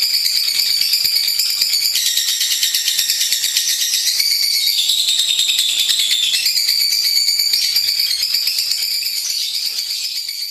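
Lovebird singing a long, continuous, rapid high-pitched chattering trill that shifts in pitch now and then, beginning to fade near the end.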